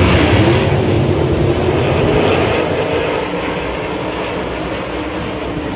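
Sprint car engines running hard on the dirt track, loud at first and slowly fading as the cars move away.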